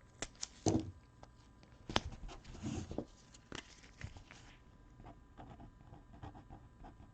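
Scattered light clicks and short rustles of small objects being handled on a tabletop, busiest in the first few seconds.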